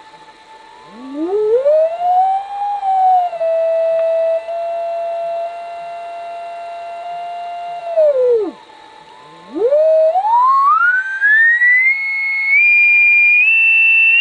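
Radio receiver's beat-note whistle from the Si5351A signal generator's carrier, heard in SSB or CW mode. The pitch slides up and holds. It then drops away to nothing about eight seconds in, and climbs again in small steps to a high whistle as the frequency is changed. A faint steady tone sounds beneath it.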